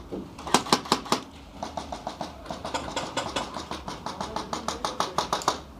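Airsoft gunfire: a rapid run of sharp snaps, about eight a second, continuing with brief pauses, over a low steady hum.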